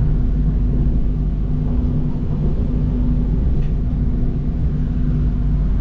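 Passenger train running along the track, heard from inside the carriage: a steady low rumble with a constant hum.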